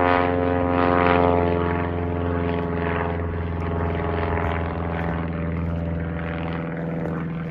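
Steady engine drone, a deep hum with many even overtones, holding its pitch and cutting off abruptly at the very end.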